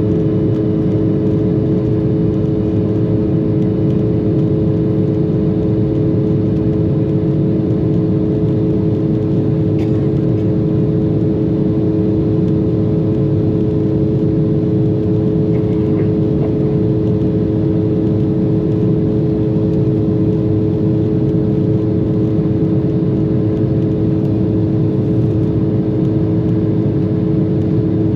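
Steady jet-engine drone heard inside the cabin of an Embraer regional jet: a dense low rumble with a few constant hum tones over it, unchanging throughout.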